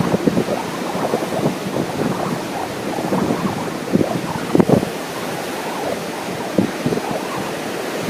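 Wind buffeting the microphone in irregular gusts, over the steady wash of ocean surf.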